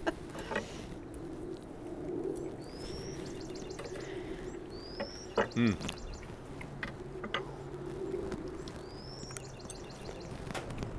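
A songbird singing a short phrase three times, a rising whistle followed by a buzzy trill, over a steady low background hum. About halfway there is a brief louder low sound whose pitch falls, like a person's short hum.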